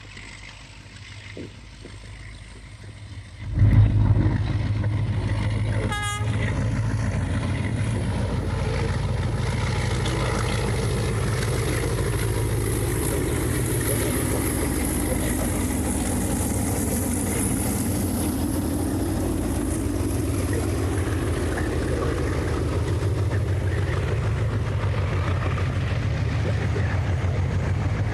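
SGR train passing close by: a sudden heavy low rumble sets in about three and a half seconds in, a short horn toot sounds a couple of seconds later, and the rumble of the train running on the rails then holds steady.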